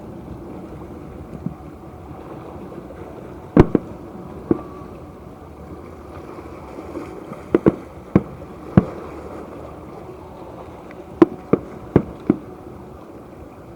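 Fireworks exploding: about ten sharp bangs at irregular intervals, some in quick pairs, over a steady background hiss.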